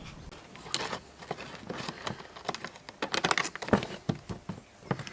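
Irregular clicks and small metallic knocks of a hex key and hand tools working at a seized hex-headed screw in the fog lamp's plastic trim, thickest in a quick run a little past the middle.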